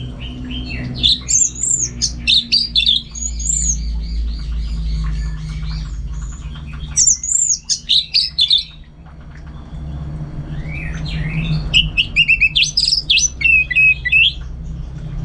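Orange-headed thrush singing in three runs of rapid, varied high notes, over a steady low hum.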